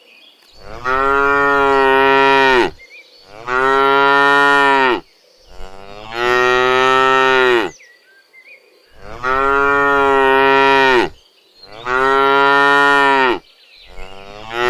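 A cow mooing repeatedly: about six long, loud moos of roughly two seconds each, with short pauses between them.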